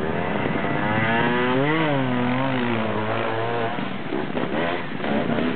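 Trials motorcycle engine revving under load as the bike climbs a steep earth bank. The pitch rises and falls a few times, then drops away after about three and a half seconds.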